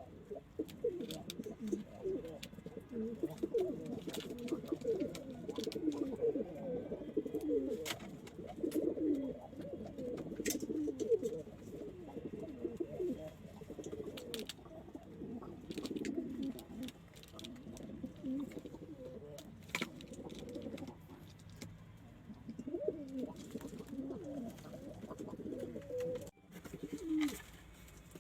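Several domestic pigeons cooing at once, low overlapping coos running on without a break, with a few sharp clicks scattered through.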